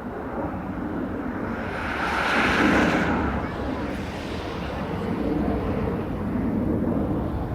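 Airbus A380's four jet engines on a slow demonstration flypast: a steady deep rumble with a jet hiss that swells to its loudest about two and a half seconds in, then eases off.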